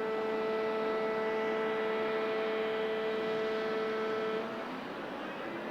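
Jet aircraft engines whining steadily over a rush of engine noise. The whine stops about four and a half seconds in, and a new, slightly higher whine starts near the end.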